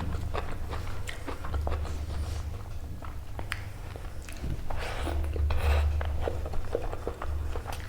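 Close-miked eating of chicken and rice: irregular wet chewing and biting, with mouth clicks and smacks, busiest about five to six seconds in, over a steady low hum.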